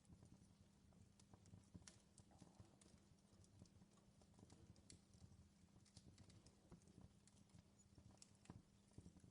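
Faint fireplace fire crackling: irregular small pops and snaps over a low steady rumble.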